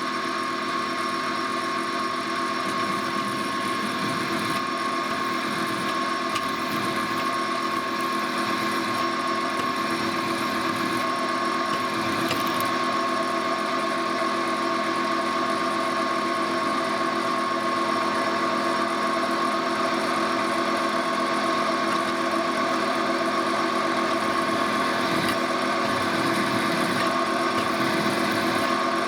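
Drill press running steadily with a constant motor whine while a 1/4-inch bit drills pilot holes in metal.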